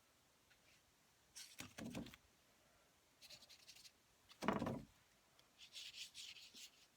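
A scrap of collage paper pressed and rubbed over wet paint on a journal page: faint scratchy rubbing in about four short strokes.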